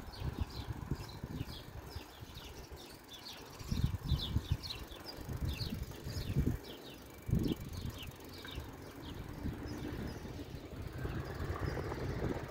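Small birds chirping in quick, repeated short notes, with low irregular rumbles from wind or movement on the microphone; near the end a vehicle's noise rises as it approaches.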